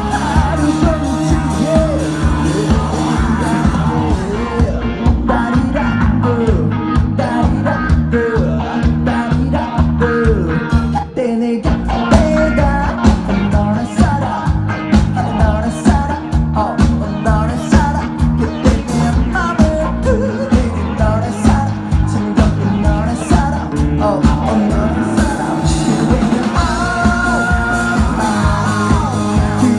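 Rock band playing live with a lead singer, drums keeping a steady beat under the vocal line; the music drops out for a moment about eleven seconds in.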